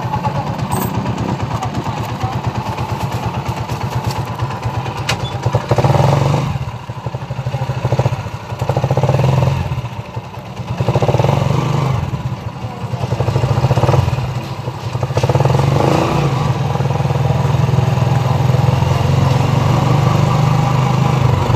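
Honda motorcycle engine of a sidecar tricycle running under way. It revs up and eases off several times through the middle, then pulls steadily near the end.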